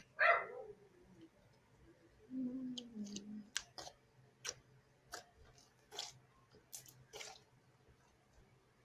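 Homemade slime being worked in the hands, giving a scattered series of small sticky clicks and pops, about six of them in the second half. A short murmur of a voice comes early on.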